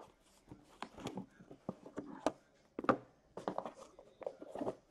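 Cardboard boxes of trading cards being handled on a table: a scatter of irregular light knocks and short scrapes.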